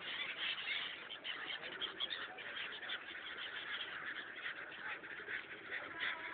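A flock of migratory birds calling over the river, many short overlapping calls in a continuous chatter.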